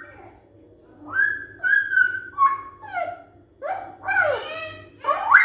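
African grey parrot giving a run of whistled calls, some held on a steady pitch and, from about halfway, sweeping down and up in pitch.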